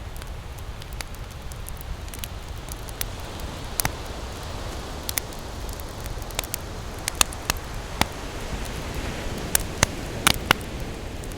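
Campfire crackling, with sharp pops scattered throughout and several louder pops in the second half, over a steady low wash of ocean surf.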